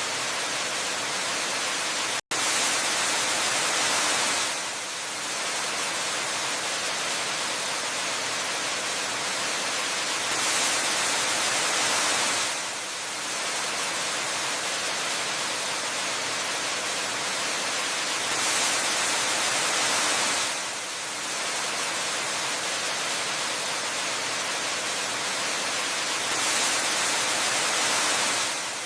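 Steady rushing of a waterfall, an even hiss of falling water, swelling a little louder about every eight seconds, with a momentary dropout about two seconds in.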